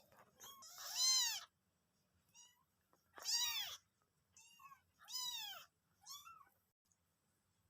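A cat meowing repeatedly, about six meows with short pauses between, each call rising and then falling in pitch, three of them louder than the rest.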